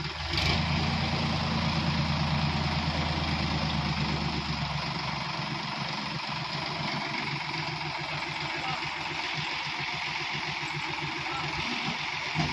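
Tractor engine running steadily with an even, pulsing hum, getting louder about half a second in.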